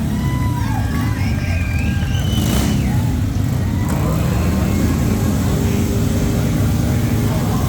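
Motorcycle engines running loud, the pitch shifting up and down as they rev.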